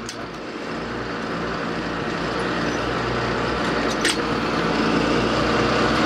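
Tractor engine running steadily, growing gradually louder, with a single sharp click about four seconds in.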